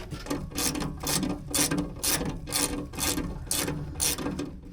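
Hand ratchet wrench worked in quick back-and-forth strokes, clicking in a steady rhythm of about two to three strokes a second.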